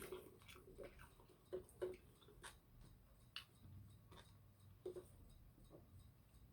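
Near silence broken by about a dozen faint, scattered clicks and smacks: quiet mouth sounds of eating or sipping.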